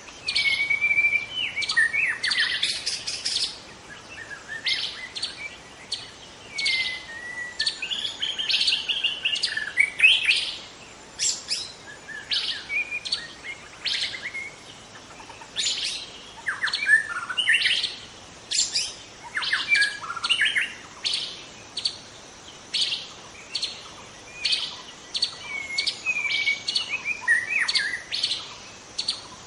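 A young white-rumped shama (murai batu) singing: a rapid, unbroken string of sharp chips and short whistled phrases, one after another.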